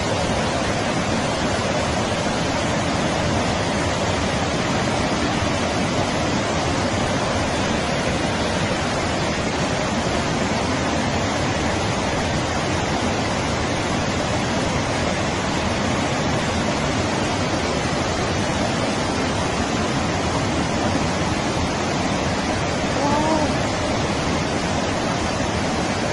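Loud, steady roar of a huge torrent of rushing water, with no change in strength throughout.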